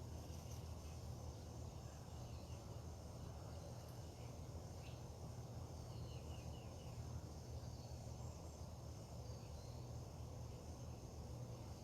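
Faint outdoor ambience under a steady low hum, with a few short bird chirps about midway and a thin high insect drone.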